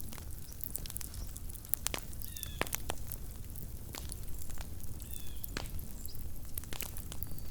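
Wood campfire crackling: irregular sharp pops and snaps from the burning wood, several a second, over a low steady background noise.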